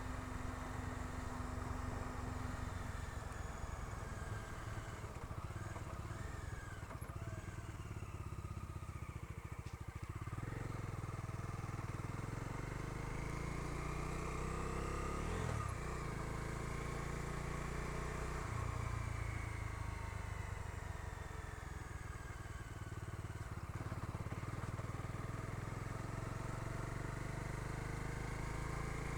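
Bajaj Dominar 250 motorcycle's single-cylinder engine running on the road with a passenger aboard, its note rising and falling several times as the rider changes speed and gears.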